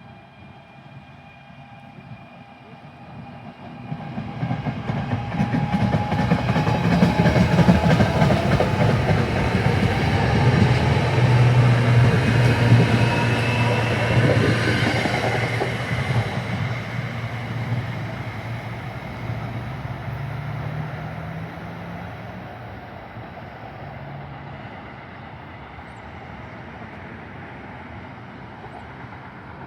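A passenger train passing through the station, its wheels clattering on the rails and its engine humming. It grows loud about four seconds in, is loudest for roughly ten seconds, then slowly fades away.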